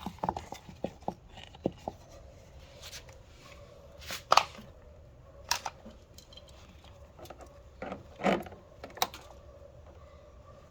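Irregular knocks, clicks and clatters of hard objects being handled, spaced a second or more apart, the loudest about four seconds in and another a little after eight seconds.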